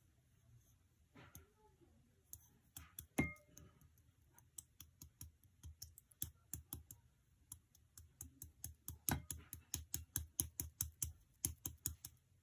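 A run of small, sharp clicks and taps, sparse at first with one louder, briefly ringing click about three seconds in, then coming faster, about three or four a second, toward the end.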